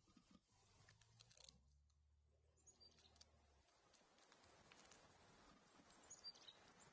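Near silence: faint outdoor ambience with a few faint, short, high chirps from small birds and scattered light clicks.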